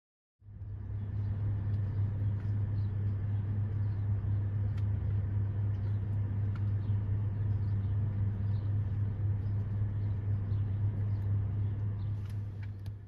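Car engine idling steadily, a deep even rumble that fades in and out.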